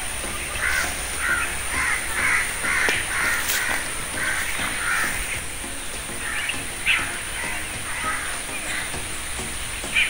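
Birds calling from the trees: a quick run of short, harsh calls for the first half, then scattered calls and a brief sharp sound about seven seconds in.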